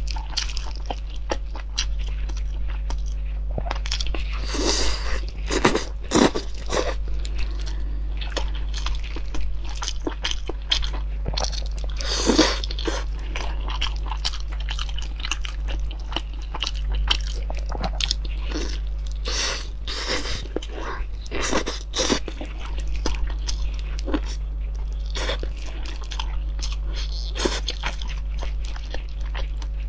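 Close-miked chewing and biting of braised meat, with many sharp crunches coming irregularly throughout, over a steady low hum.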